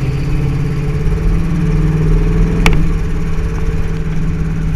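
Chevy 350 small-block V8 running at low, steady revs through its mufflers, a loud exhaust note heard from inside the car. A single sharp click cuts through it about two and a half seconds in.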